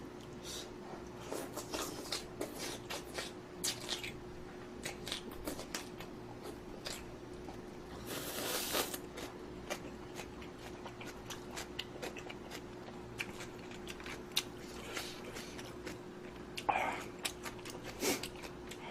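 Close-miked eating sounds: many small chewing and mouth clicks, with a longer slurp about eight seconds in, over a faint steady hum.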